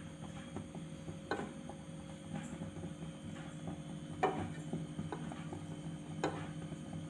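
A piece of butter melting in a hot pan: faint crackling with a few small pops, three of them clearer, over a steady low hum.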